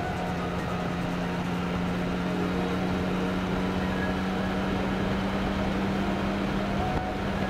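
Motorcycle engine running at a steady cruise, over a haze of wind and road noise. Its note shifts slightly about seven seconds in.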